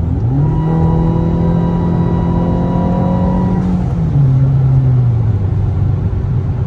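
2016 VW Passat 1.8T turbo four-cylinder with its muffler cut off, engine note rising briefly as it accelerates, then holding a steady drone. The pitch drops about four seconds in as the revs fall.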